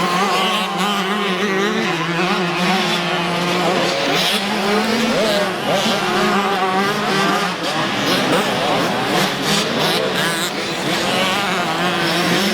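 Several motocross bike engines revving up and down on the track, their pitches rising and falling and overlapping throughout.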